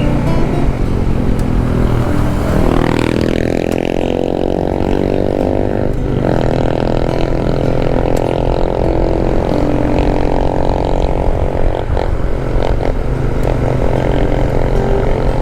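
Motorcycle engine under way: its note rises for a few seconds as it accelerates, breaks briefly about six seconds in, then holds steady, with low wind rumble on the microphone.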